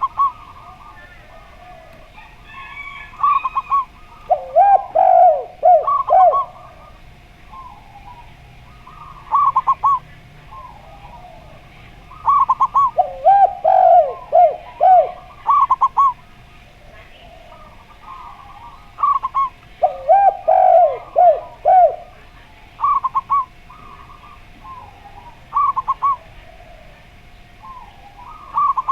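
Zebra dove and spotted dove cooing in turn. The zebra dove gives short phrases of quick high notes again and again, and the lower, louder coo phrases come three times.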